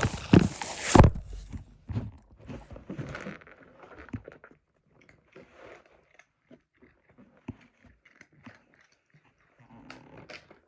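A cat chewing and crunching snacks: a loud flurry of short crunches in the first second, then scattered, fainter bites that thin out with quiet gaps between them.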